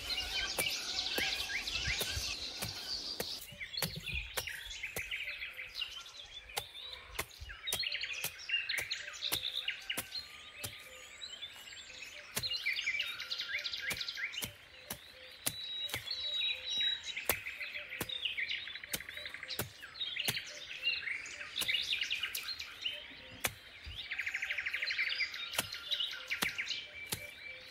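Small birds chirping and trilling in repeated phrases, with frequent sharp clicks throughout.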